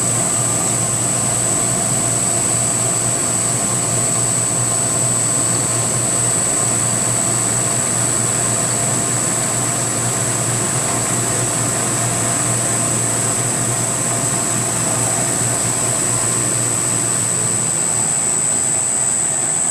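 A CNC milling machine with a belt-drive spindle cutting the last pass around the part, under the steady rush of an air blower clearing chips. A constant high-pitched whine sits over the noise.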